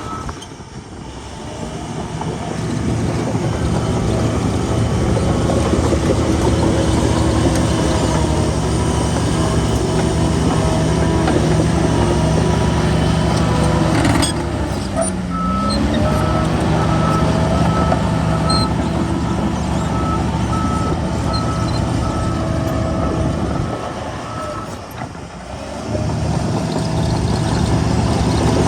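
Heavy diesel earthmoving machine running hard, its engine note dropping briefly and climbing back about halfway, then a reversing alarm beeping about once a second for several seconds.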